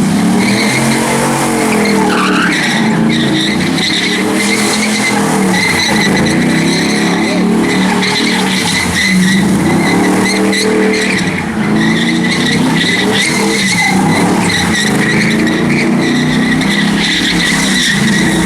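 A car doing donuts: the engine revs rise and fall every couple of seconds while the tyres squeal without a break.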